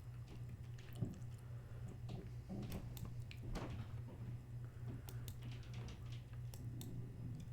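A person chewing a chicken burger and fries close to the microphone, with scattered soft mouth clicks and small squishy sounds over a steady low hum.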